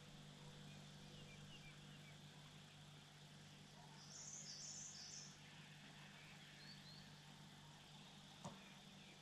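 Near silence: faint outdoor ambience with a low steady hum, a short burst of high chirps about four seconds in, and a single click near the end.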